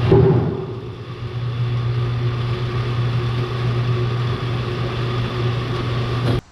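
A machine drone, an engine or motor running steadily with a constant low hum. A sharp clank comes right at the start, and the drone cuts off abruptly near the end.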